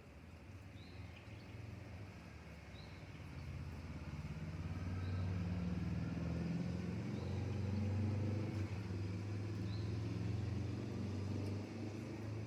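Low motor hum, like a passing vehicle's engine, that swells over several seconds and eases off near the end. Faint short high chirps sound about every two seconds.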